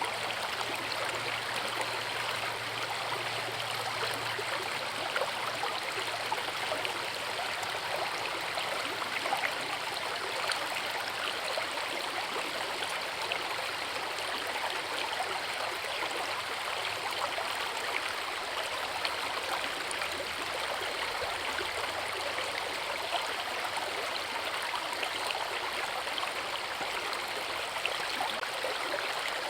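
Forest river running steadily over rocks: an even, unbroken rush of water with fine splashing and gurgling.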